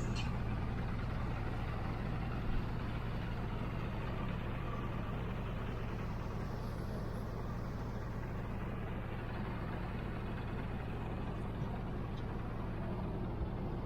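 Speedboat engine running steadily, a low even hum.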